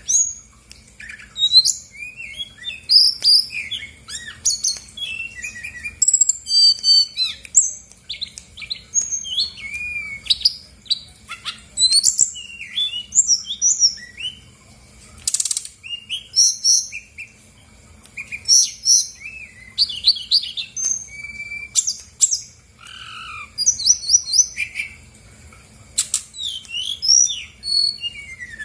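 Brown-chested jungle flycatcher singing vigorously: a busy, varied run of quick chirps, slurred whistles and rapid trills with short pauses between phrases. It is a lure song used to prompt a reluctant caged bird to answer.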